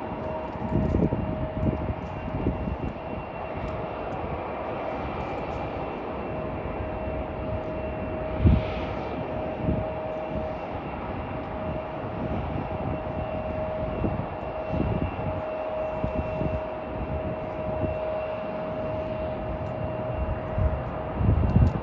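CRJ-900 regional jet's GE CF34 turbofans running with a steady whine that holds its pitch, over irregular low rumbles, with one short knock midway.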